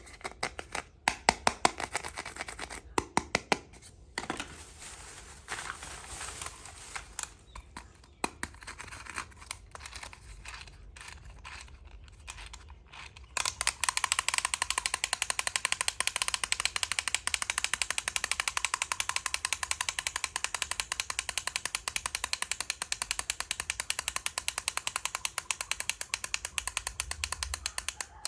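Scattered clicks and taps of small toy parts being handled. About halfway through, a steady, rapid mechanical clicking starts and keeps going.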